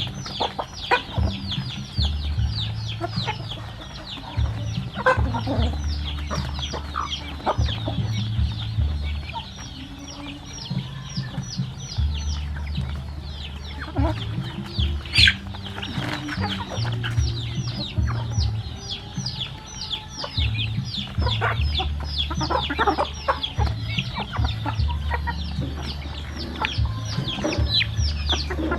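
A flock of chickens clucking, with a constant chorus of short, high, falling peeps throughout. A low rumble comes and goes underneath.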